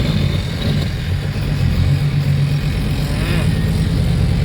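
Heavy loaded truck's diesel engine running under way, heard from inside the cab: a steady low drone whose pitch shifts slightly.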